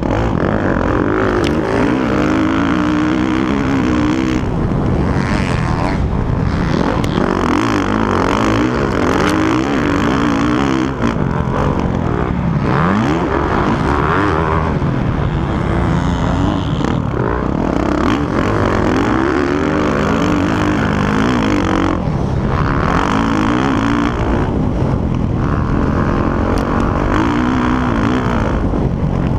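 Motocross bikes riding the track. Several engines keep revving up and falling back in pitch as the riders accelerate and shift, with no letup.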